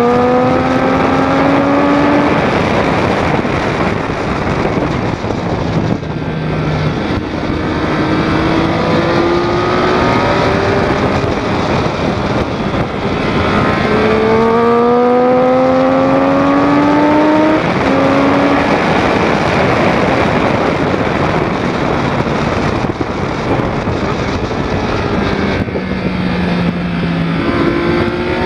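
The 2006 Triumph Daytona 675's inline three-cylinder engine running hard on track, climbing in pitch through the revs several times with drops in between as it changes gear and slows for corners, over a steady rush of wind and road noise.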